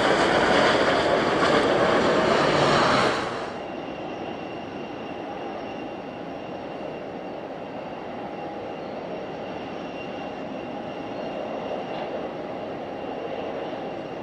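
Loud jet roar from a Mitsubishi CRJ-1000's turbofan engines on landing, cut off abruptly about three seconds in. It gives way to a much quieter steady engine hum with a thin high whine.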